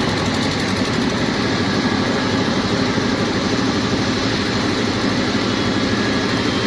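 Jet airliner's engines running steadily: a loud even rush with faint steady whining tones, not rising or falling.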